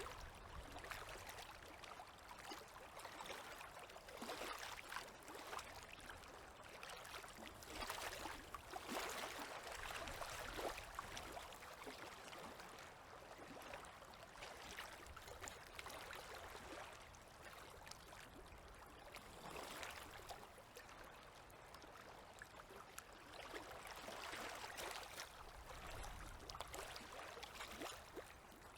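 Small river waves lapping and splashing at the water's edge, faint, swelling and easing every few seconds.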